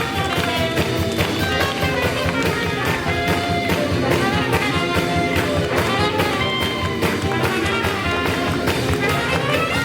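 Live swing jazz band playing a tune with a steady beat and melodic lead lines over it.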